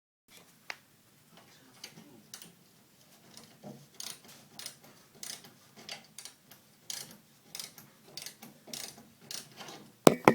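Regular clicking, about three clicks every two seconds, with a single sharp click a little before it and a loud knock near the end.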